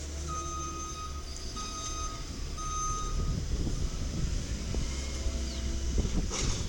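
Side-loader garbage truck's backup alarm beeping three times, about a second apart, over its diesel engine running. A short hiss comes near the end.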